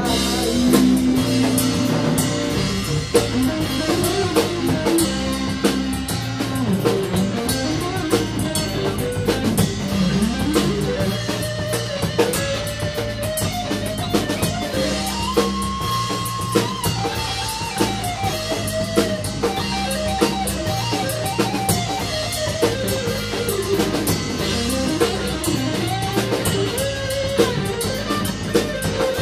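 Band playing an instrumental break: a lead guitar plays a melody with bent, sliding notes and one long held note about halfway through, over bass and a steady drum kit beat.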